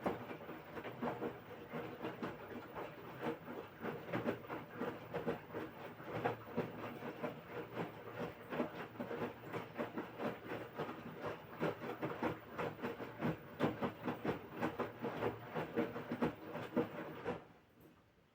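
LG washing machine in its wash phase: the drum turning and tumbling the wet laundry in an uneven run of swishes and soft knocks, then stopping abruptly near the end as the drum pauses.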